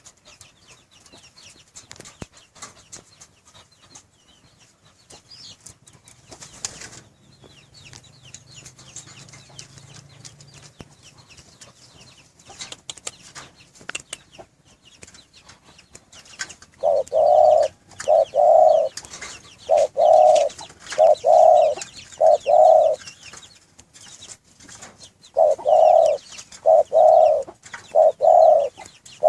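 Spotted dove (derkuku) cooing. After a stretch of faint scattered chirps and clicks, it gives two runs of about five low, evenly spaced coo notes in the second half.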